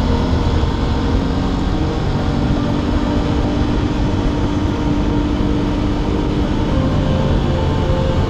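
Aprilia RS 660's 659 cc parallel-twin engine running steadily on the move, with a constant wind rush over it. The engine note rises slightly a few seconds in and then settles.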